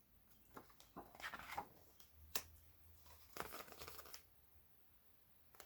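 Faint rustling and soft ticks of paper, a picture-book page being handled and turned, in a few short bursts during the first four seconds.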